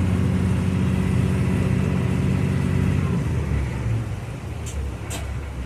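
Passenger boat's engine running with a steady low drone, then easing off and dropping in level about three seconds in. Two brief sharp sounds come near the end.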